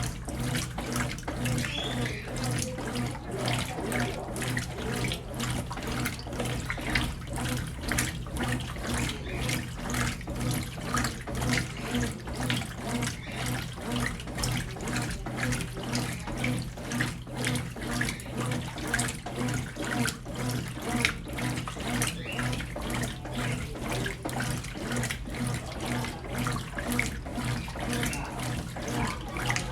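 Brastemp Ative! 11 kg washing machine washing a load of clothes: water sloshing in quick, even strokes over a steady motor hum.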